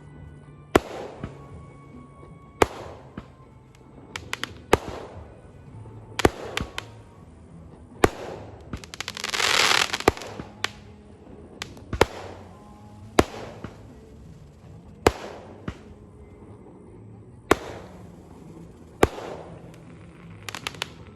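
Firecrackers going off one after another, a sharp bang every second or two, each echoing briefly, with a longer hissing rush about nine seconds in.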